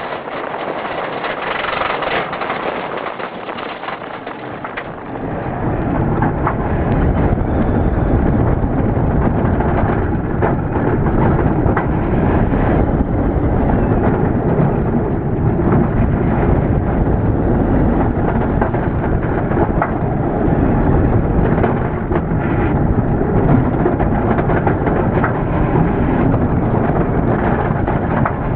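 Chance Rides Hyper GT-X steel roller coaster train running through its course at speed, heard from the front seat: a steady rushing rumble that grows much louder about five seconds in and stays loud.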